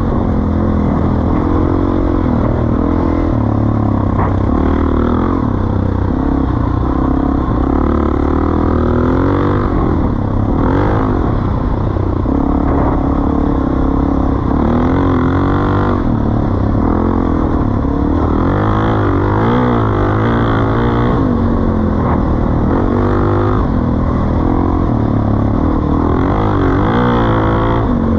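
Suzuki DR-Z400E's single-cylinder four-stroke engine running through a Pro Circuit T4 exhaust, loud and continuous, with the revs rising and falling again and again.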